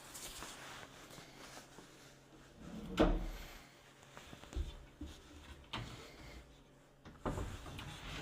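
Kitchen cabinet drawers and doors being opened and shut: a loud knock about three seconds in, then softer knocks near the middle and towards the end.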